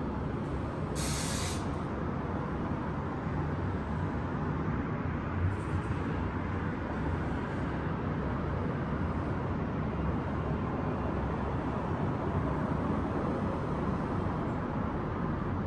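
Steady city traffic noise, a low even rumble of distant vehicles, with a short hiss about a second in.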